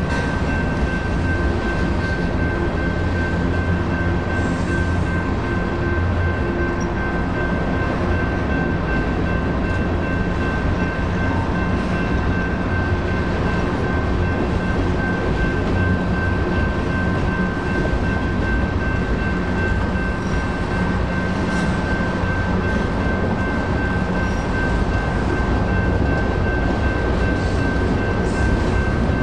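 Freight cars of a BNSF manifest train rolling steadily past over a grade crossing: a continuous low rumble of wheels on rail. Above it, a steady high ringing tone runs throughout, from the crossing's electronic bell, which rings for the whole activation.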